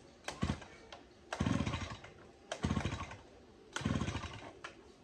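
Three short bursts of a motor, each lasting about a second and coming roughly a second and a quarter apart, after a light click.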